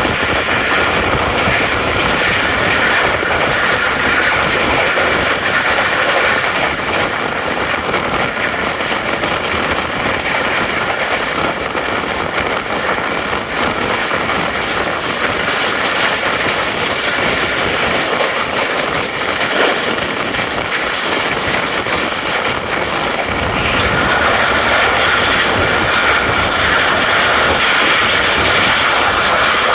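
Tezgam Express passenger train running along the track: steady noise of wheels on rails that grows louder about three-quarters of the way through.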